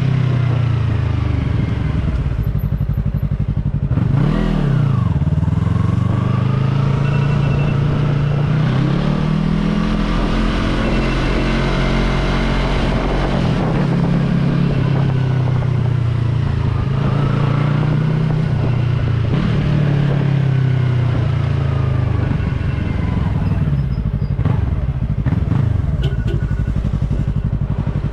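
Yamaha R3 motorcycle's parallel-twin engine running under way. Its pitch keeps rising and falling with the throttle and gear changes, with a sharp drop and quick climb about four seconds in.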